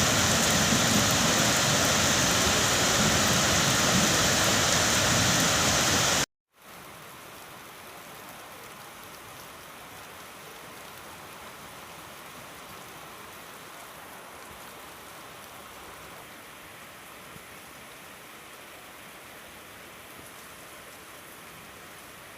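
Heavy rain pouring down in a loud, steady hiss. About six seconds in it cuts off abruptly, and after a brief silence a much fainter, steady hiss of rain continues.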